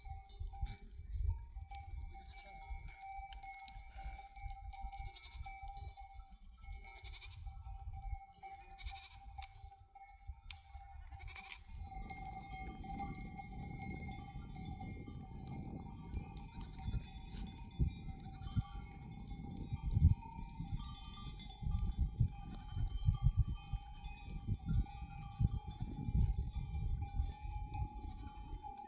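Flock of sheep and goats moving with their bells clinking, with occasional bleats. A low rumbling noise beneath grows heavier about halfway through.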